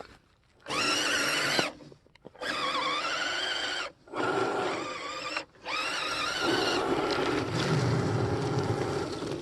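Electric RC scale truck's motor and gearbox whining in four throttle bursts, each cutting off abruptly, with the pitch dipping and climbing as the speed changes.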